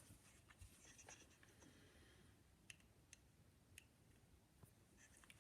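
Near silence broken by a few faint, sharp clicks: small screws and a screwdriver being handled on a Victor No. 2 phonograph reproducer.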